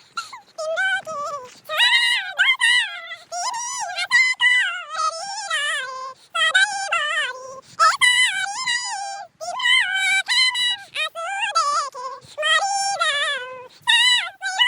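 A song carried by a high-pitched sung voice in short melodic phrases, with little else heard under it.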